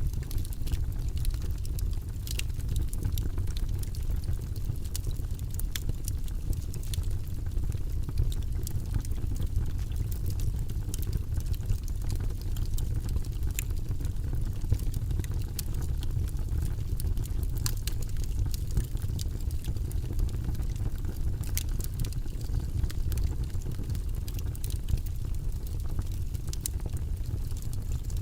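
Wood logs burning in a fireplace: frequent sharp crackles and pops at irregular intervals over a steady low rumble of the flames.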